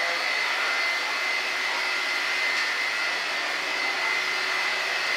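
A steady machine drone, an even rushing noise with a thin high whine held throughout.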